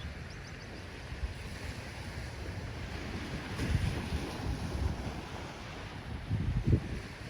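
Ocean waves washing on the shore, with wind buffeting the microphone; the low rumble swells about three and a half seconds in and again near the end.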